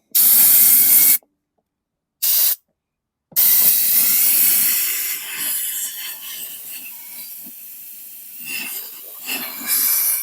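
Compressed-air blowgun blasting into a mower's plastic fuel tank to dry out water: a short burst, a brief second puff, then a long hissing blast that slowly tapers and fluctuates.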